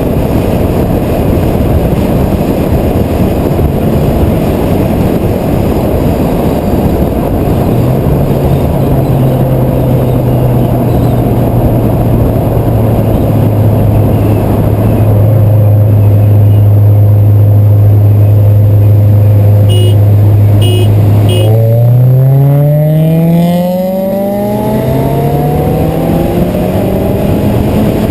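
Car engine under heavy wind and road rush at highway speed. The engine holds a steady drone, then about three-quarters of the way in it accelerates hard, rising in pitch, shifts gear and climbs again.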